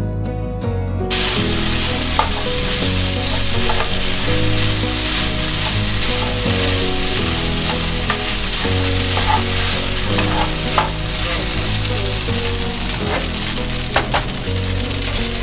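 Sliced beef fajita strips frying in a hot pan, with a steady sizzle that starts about a second in and a few sharp clicks from stirring with a utensil. Soft music plays underneath.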